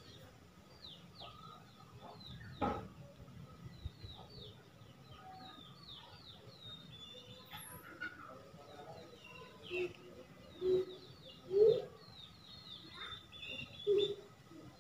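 Small birds chirping steadily in the background, many quick falling chirps one after another. There is a sharp click about three seconds in, and a few short, louder low knocks or rustles from about two-thirds of the way through to near the end.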